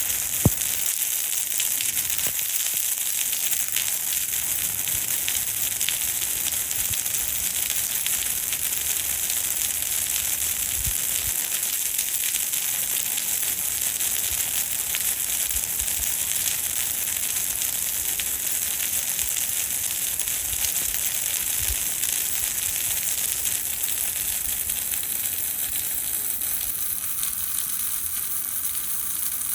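Steady rain falling: an even, dense hiss of drops with many fine ticks. A single sharp click about half a second in stands out above it.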